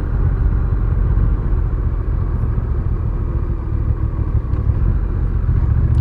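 Honda Rebel 1100's parallel-twin engine running steadily while riding, a constant low rumble mixed with wind and road noise.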